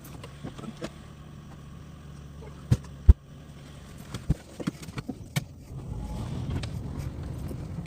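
A car engine running at a steady low idle, with scattered clicks and knocks and one loud thump about three seconds in.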